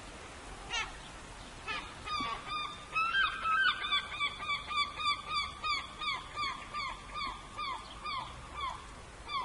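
A bird calling in a long run of short, falling, honk-like notes, about three a second, over the steady hiss of falling rain. A single sweeping call comes just under a second in.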